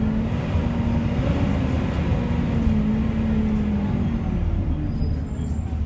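Volvo B7TL double-decker bus running, a steady low drone with the whine of its loud 'hoover' cooling fan; the tone drops in pitch about four seconds in as the bus slows.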